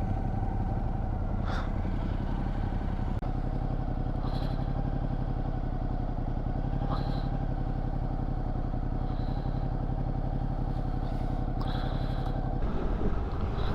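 Adventure motorcycle's engine running at a steady, even pitch while riding, with a brief dip in level about three seconds in.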